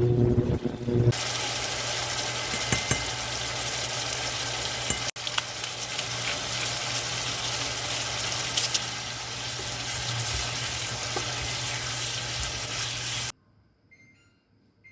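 Food sizzling in a hot frying pan, an even hiss with a steady low hum beneath it, starting about a second in and cutting off suddenly near the end.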